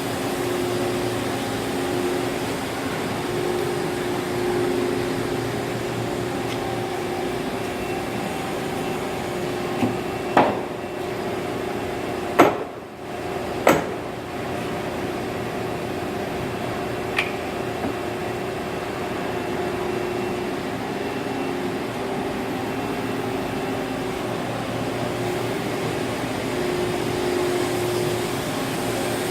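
Steady machine-shop hum from running machinery, with a few sharp metal knocks and clanks scattered through it, the loudest about ten to fourteen seconds in.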